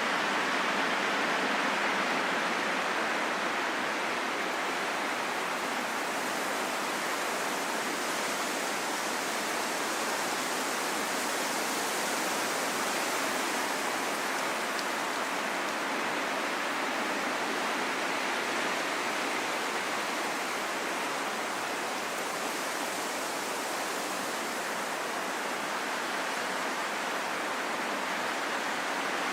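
Steady rushing wind: a dense, even hiss that slowly swells and eases, with hardly any deep rumble.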